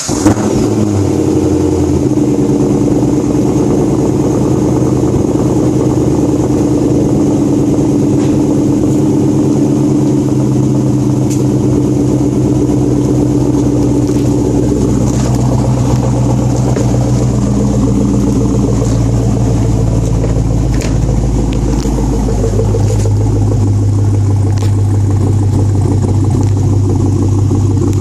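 Car engine with its mufflers removed, catching at the very start and then idling steadily through the open exhaust. The low exhaust note changes about 2 seconds in and again about 22 seconds in.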